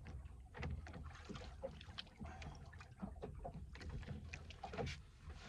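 Scattered light knocks and clicks, like fish and tackle being handled on board a small fishing boat, over a steady low rumble.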